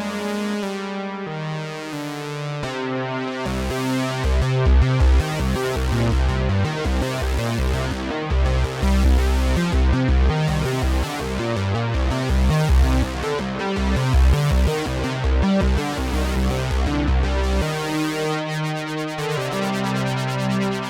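Behringer Poly D analog synthesizer playing. Sustained notes give way a few seconds in to a fast, pulsing bass pattern, which returns to held notes near the end.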